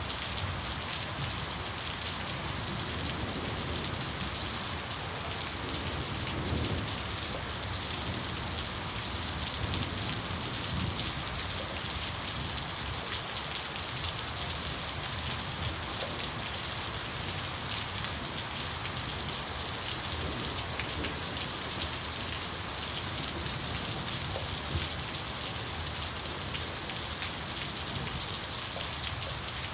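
Steady rain falling, a constant hiss with a dense patter of drops.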